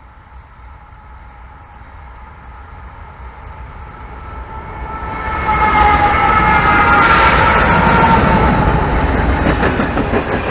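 Norfolk Southern locomotive sounding one long horn blast as it approaches, growing steadily louder. About halfway in, the horn is joined by the rising rumble of the train coming past, and the horn fades out near the end.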